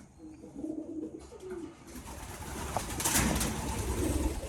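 Pigeons cooing in low, wavering notes, with a loud rustle about three seconds in.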